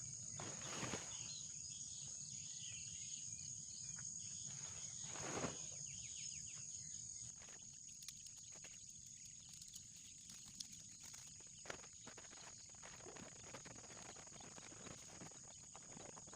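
Forest ambience: a steady high drone of insects, with birds chirping in the first half and two brief rustling swells. Scattered faint clicks and taps follow in the second half.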